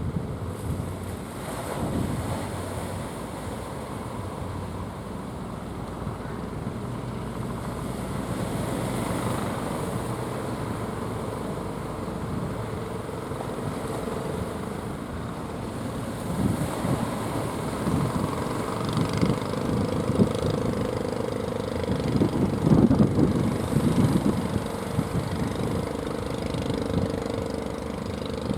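A fishing boat's motor runs steadily, with strong wind rumbling on the microphone in gusts that are heaviest about three-quarters of the way in.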